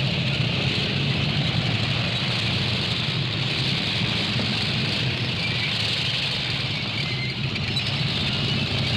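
A steady engine running, a constant low hum with a hiss over it.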